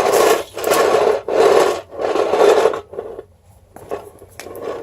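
Bissell Sweep Up manual carpet sweeper pushed back and forth over a hard floor: three noisy strokes of about a second each, its brush and wheels rubbing across the surface and the clippings, then a quieter stretch with a few light clicks.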